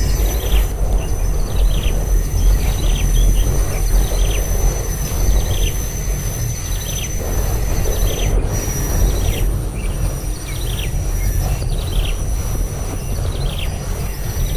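A bird giving short, falling chirps, about one a second, over a heavy low rumble and a steady high-pitched whine.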